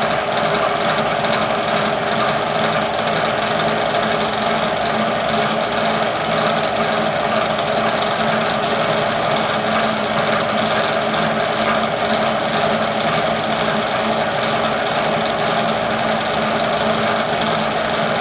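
Bridgeport milling machine's spindle motor running at a steady speed, an even mechanical hum with a constant whine.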